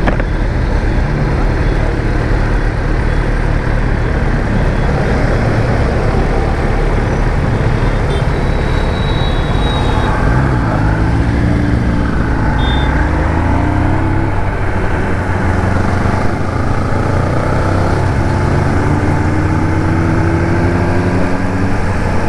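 Kawasaki ZX-10R superbike's inline-four engine running on the move, with road noise. From about ten seconds in, its pitch rises and falls as the throttle is worked.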